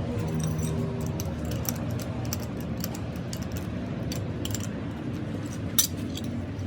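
Light metallic clinks and taps over a steady low machine hum, with one sharper knock about six seconds in.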